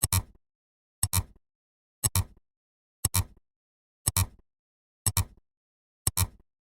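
A short, sharp double click repeating evenly about once a second, seven times, with silence between: a counting sound effect.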